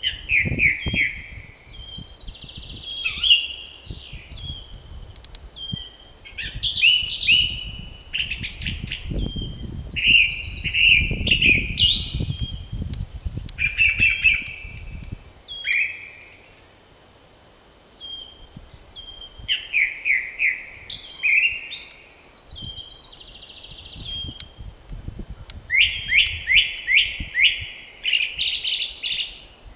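Several songbirds singing in spring, short repeated whistled and trilled phrases one after another, with a quick run of notes near the end. Wind gusts rumble low in the first half, then die down.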